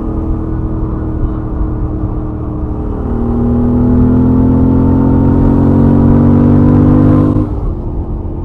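Royal Enfield Interceptor 650's 648 cc parallel-twin engine, stock exhaust, at highway speed, heard from the rider's helmet with wind rumble. It cruises steadily, then about three seconds in the throttle opens and the note gets louder and climbs slowly as the bike accelerates, before the throttle is shut off near the end and the note drops back.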